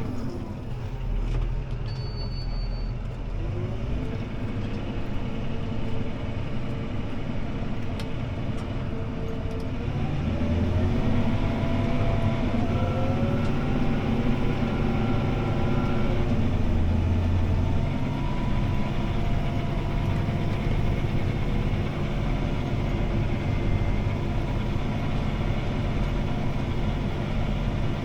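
CLAAS ARION 650 tractor's six-cylinder diesel engine heard from inside the cab under disc-harrowing work. Its pitch dips near the start, rises again about four seconds in, climbs once more about ten seconds in, then runs steadily.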